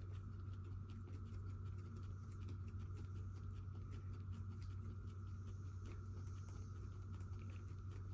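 Pet guinea pigs moving about in their enclosure: many small, irregular ticks and scratches over a steady low hum.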